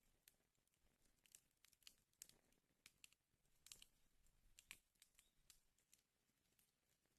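Wood fire in a fireplace crackling faintly: irregular sharp snaps and pops, several a second, coming in small clusters.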